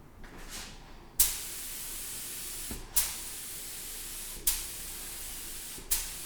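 Pressurised spray hissing in four bursts of about a second and a half each. Each burst starts with a sharp puff and then holds a steady hiss.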